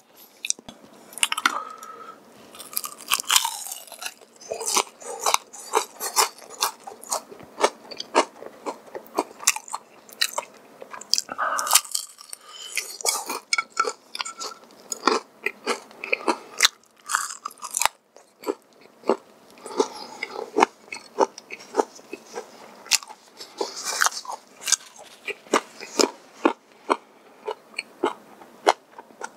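Close-miked crunching and chewing of crispy fried chicken: many sharp crunches in quick succession, with a couple of brief lulls.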